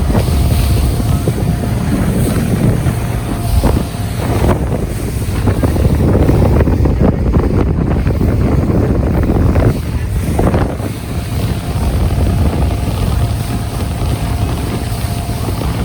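Bay boat under way, its 300 Yamaha outboard running steadily with a faint steady whine, buried under heavy wind buffeting on the microphone.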